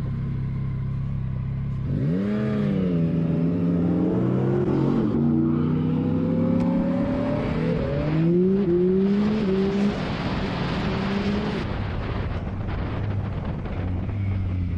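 A motor vehicle's engine runs steadily, then about two seconds in revs up and accelerates hard, its pitch climbing in repeated sweeps that drop back at each gear change. About twelve seconds in it settles to a steady lower drone.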